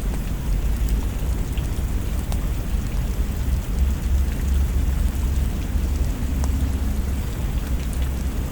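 Steady rain falling, with a deep continuous rumble underneath and a few scattered sharp ticks.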